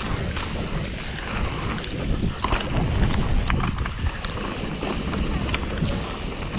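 Wind rushing over the microphone of a mountain biker's camera, with the bike rattling and clicking over a wet, rocky trail.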